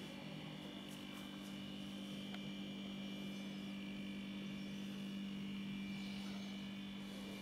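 Steady electrical hum, low and even, with a faint high whine above it.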